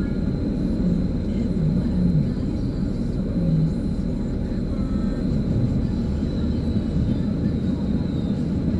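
Steady low rumble of a vehicle engine running, with a few faint voices in the first few seconds.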